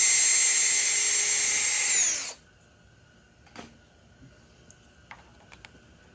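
Small high-speed electric power tool running with a steady high whine, switched off a little over two seconds in and spinning down. A few light knocks and clicks follow.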